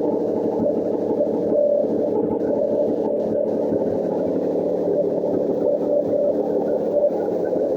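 Toyota KF-VE three-cylinder engine running steadily at idle. It runs evenly, with no knocking or other extraneous noise, the sign of a healthy used engine.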